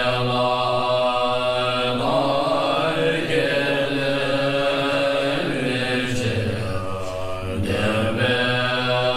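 Low male voices chanting a mantra in long held notes, each note sustained for a few seconds before sliding into the next.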